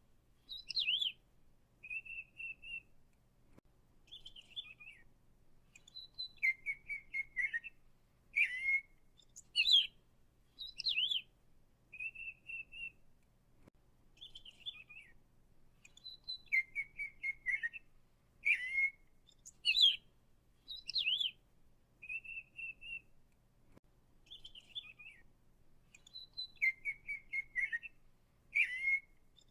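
Songbird calls: short whistled chirps, brief buzzy trills and falling slurred notes, in a sequence that repeats almost identically about every ten seconds.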